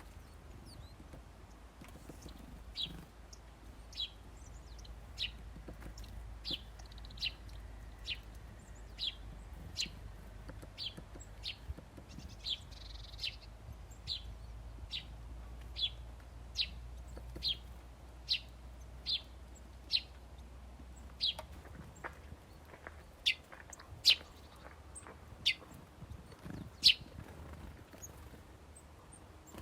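A small bird calling in short, sharp chirps, one about every second, starting a few seconds in, over a low steady rumble.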